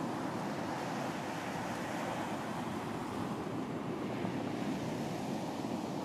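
Ocean surf washing onto a beach: a steady rush of waves that swells and eases gently, with no single breaker standing out.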